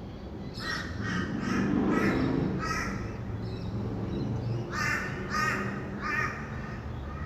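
Rainbow lorikeets giving short, harsh screeching calls, a quick run of about six in the first three seconds and three more a little past the middle. Underneath is a low rumble of distant traffic that swells about two seconds in.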